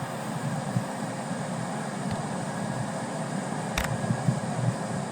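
Steam-hauled rail tour train running past on the main line: a steady rushing rumble of the train in motion, with one sharp click about four seconds in.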